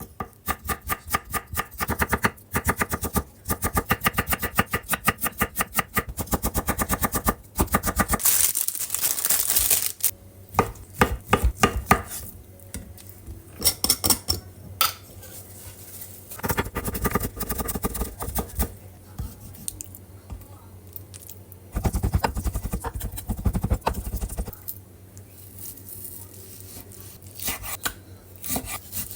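Kitchen knife chopping quickly on a cutting board: long runs of rapid, even knocks with pauses between them, and a brief rush of hiss about a third of the way in.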